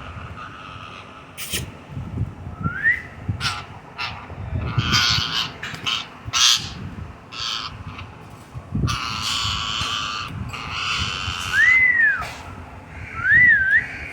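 Pet parrot giving several harsh squawks, with a few clear whistles that rise and fall in pitch, calls of a parrot that has been teased into anger.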